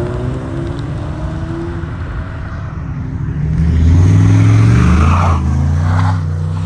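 Car engines and exhausts running as cars roll past at low speed. About three and a half seconds in, one car revs up loudly for a couple of seconds, then eases back to a steady low drone.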